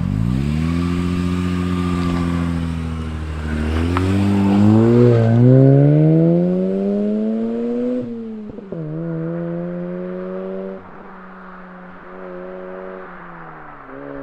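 Mazda RX-8's twin-rotor Wankel engine under hard acceleration: it holds steady revs, then climbs for a few seconds before the revs drop sharply about eight seconds in. After that it runs at lower, quieter revs and eases off near the end.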